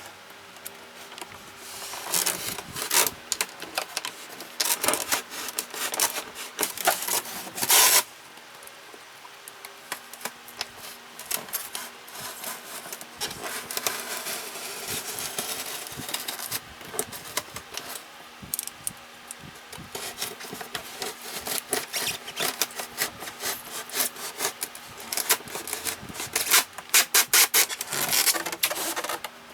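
Small utility knife sawing through the bottom of a styrofoam box, in runs of rapid scraping strokes. The strokes are busiest in the first eight seconds and again near the end, with a quieter stretch in between.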